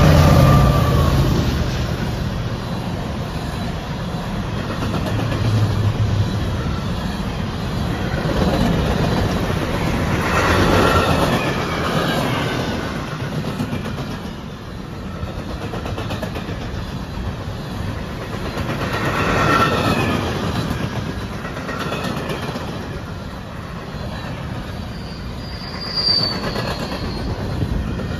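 Diesel freight locomotives rumbling past for the first several seconds, then a string of empty coal cars rolling by: steel wheels clacking on the rails, with a few brief wheel squeals and a short, higher squeal near the end.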